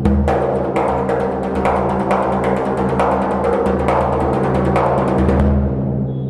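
Instrumental close of a powada: drums beaten in rapid strokes over a steady held chord. The drumming stops about five and a half seconds in, leaving the chord sounding on its own.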